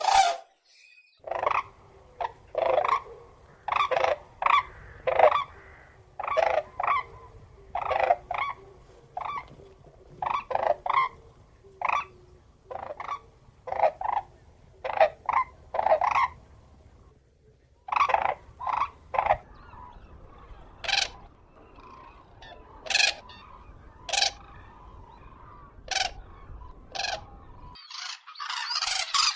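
Common crane calling over and over: short, loud calls at about one or two a second, more widely spaced in the second half. Near the end a loud noisy rush takes over.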